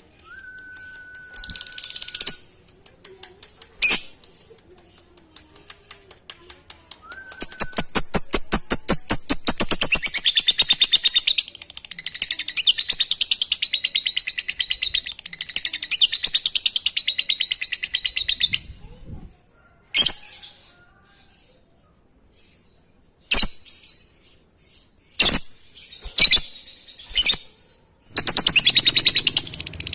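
Lovebird (Agapornis) singing its 'ngekek' song. A run of rapid ticks, about eight a second, runs into a long, high, chattering trill of about eight seconds. Short separate chirps follow, and another trill starts near the end.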